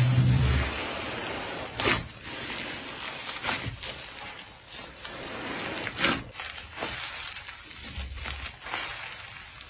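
Slime being squished and pressed by hand: a steady sticky crackle with a few sharp pops and low squelches.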